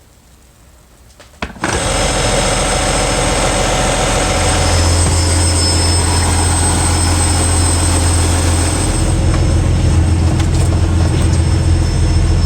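Logging truck's diesel engine running steadily, coming in suddenly about a second and a half in after a quiet start, with a low hum that grows stronger a few seconds later.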